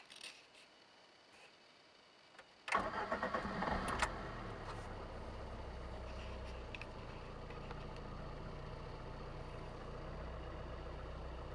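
Lada Kalina's petrol engine being started: a few light clicks, then the starter cranks and the engine catches about three seconds in and settles into a steady idle.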